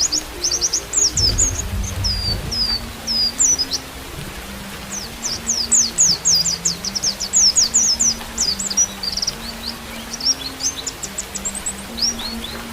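White-eye (pleci) song: fast runs of high, quick chirps with a short pause partway through, over a flute playing long held low notes and a steady hiss of rain. A brief low rumble sounds about a second in.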